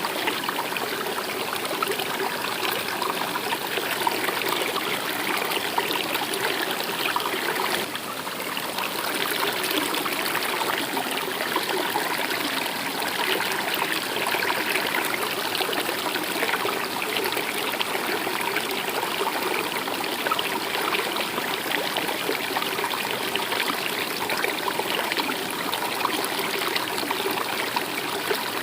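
Stream water flowing steadily, an even rushing trickle, with a short dip in level about eight seconds in.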